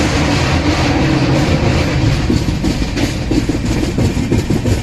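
Passenger express train running on the track: a steady loud rumble with wheels clattering over the rail joints.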